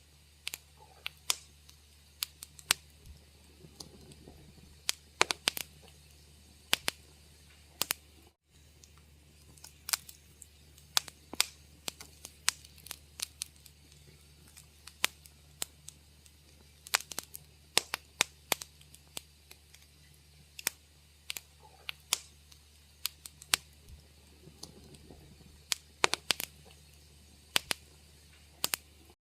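Wood fire in a fireplace crackling: irregular sharp pops and snaps over a steady low hum, with a split-second dropout to silence about eight seconds in.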